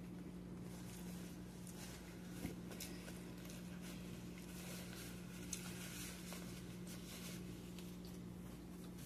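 Close-up eating sounds: chewing and soft wet clicks of mouth and food, with two slightly sharper ticks, over a steady low hum.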